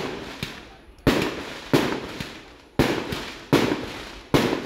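Aerial firework shells bursting in quick succession, about five sharp bangs roughly a second apart, each followed by a rumbling echo that dies away.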